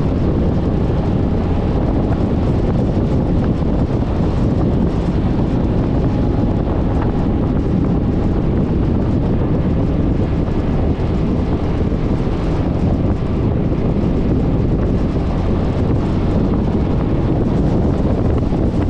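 Steady wind rumble on the microphone of an action camera mounted on a moving scooter, with the scooter's running and road noise underneath.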